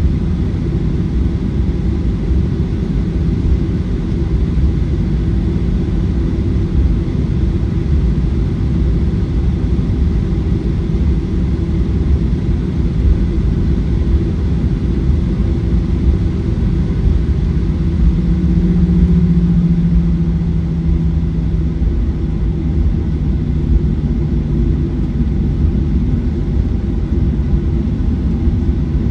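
Cabin noise of a Boeing 737-900ER on the ground, its CFM56 engines running at low power: a steady deep rumble with a low hum. The hum grows louder a little past halfway, then settles slightly lower in pitch.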